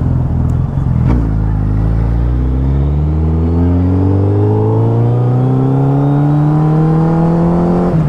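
Suzuki Hayabusa's engine pulling steadily, its pitch rising slowly and evenly for about seven seconds after a brief click about a second in.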